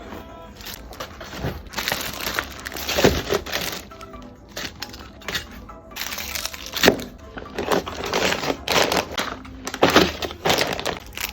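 Packing materials being handled: irregular crinkling and rustling of plastic and cardboard, with sharp cracks about three, seven and ten seconds in.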